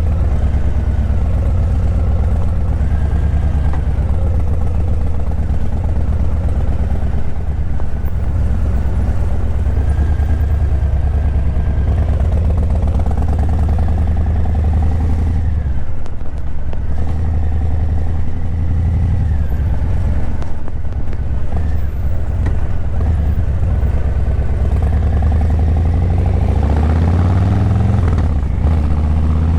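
Harley-Davidson Breakout 117's Milwaukee-Eight 117 V-twin running through Vance & Hines Eliminator 300 slip-on mufflers, a steady low rumble while cruising at low speed. Near the end the pitch rises as the bike accelerates.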